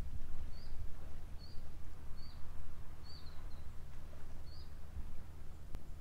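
A small bird repeating a short, high chirp about once a second, over a steady low rumble.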